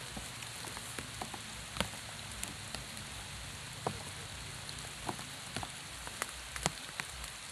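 Steady rain falling on a pond and the grass around it, an even hiss with scattered sharp ticks through it.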